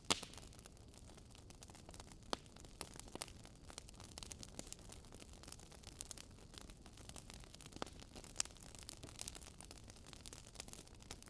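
Campfire burning: wood crackling with irregular sharp pops over a steady low rumble, the loudest pop right at the start.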